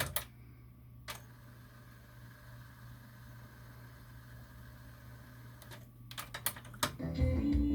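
Sony TC-WR11ES cassette deck: music playback cuts off with a sharp click, leaving a faint steady hum, with another click about a second in. A cluster of mechanical clicks around six to seven seconds in, then music playback starts again near the end.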